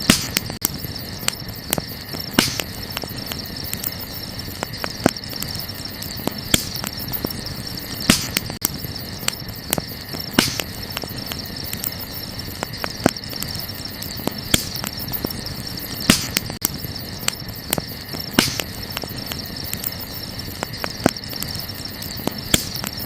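Wood campfire crackling, with frequent small clicks and a sharp louder pop every couple of seconds, over a steady high-pitched chorus of night insects.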